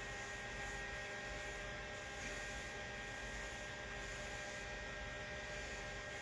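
Steady electrical hum made of several even tones over a faint hiss, with no distinct brush strokes heard.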